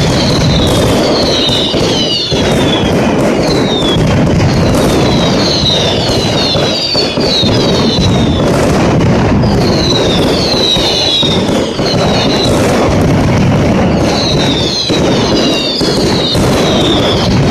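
Mascletà: a dense, unbroken barrage of firecracker bangs, with many short whistles falling in pitch over it.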